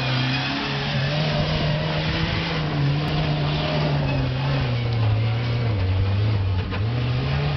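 Jeep 4x4's engine running under load on a steep hill climb, holding a steady note that sags in pitch about five seconds in and picks back up near the end.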